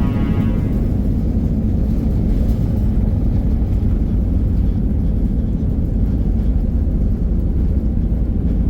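Steady low rumble of an Airbus A319 airliner's engines and airflow, even in level throughout.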